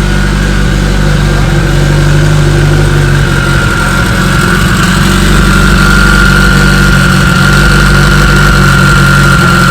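Turbocharged Honda B18 engine running loud at steady revs, with a steady high whine over the engine note, cut off abruptly at the end.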